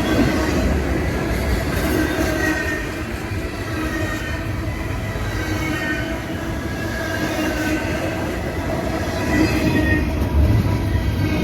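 Norfolk Southern intermodal freight train passing fast: a steady rumble of wheels on rail, with faint high ringing tones wavering over it.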